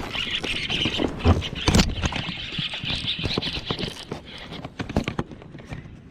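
Fishing reel whirring as line is wound in for about four seconds, with scattered clicks and knocks throughout.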